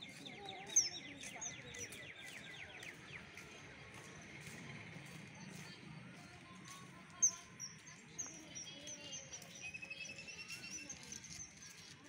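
Several birds calling: many short, high chirps, the loudest about a second in and again about seven seconds in, with a fast trill of repeated notes over the first few seconds and another rapid trill near the end.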